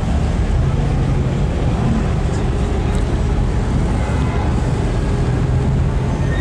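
Car engines idling with street traffic, a steady low rumble with no revving.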